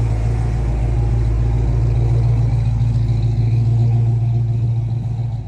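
A car engine running with a steady deep rumble, fading out near the end.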